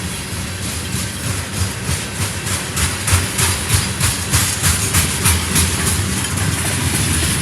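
Freight train rolling by, its wheels clicking in a quick, even rhythm over the rail joints, the clicks growing louder partway through, over a steady low diesel rumble.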